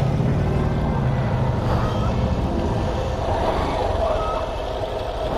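Motorcycle engine running at idle, a low steady rumble that is strongest in the first two seconds and then eases off.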